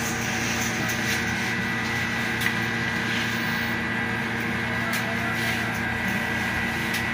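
Steady mechanical hum with a faint high whine running evenly, with a few faint clicks.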